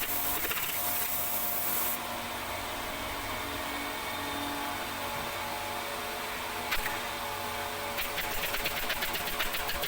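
Steady hum of workshop machinery with several steady tones; a high hiss cuts off about two seconds in. A single click comes near seven seconds, then a quick run of clicking and tapping near the end.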